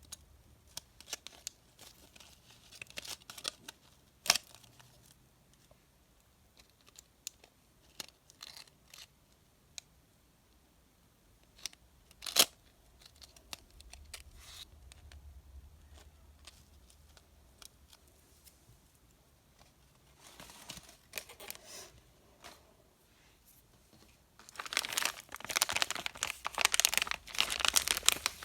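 Candy wrappers being torn open and crinkled by hand: scattered crackles with two sharp snaps, then a long, dense, louder stretch of crinkling near the end.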